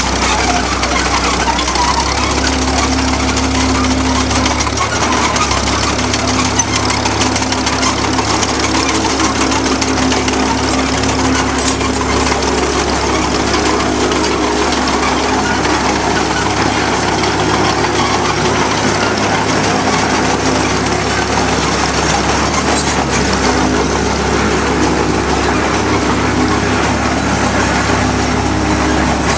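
A tractor running steadily: a continuous mechanical rumble with a wavering hum in it.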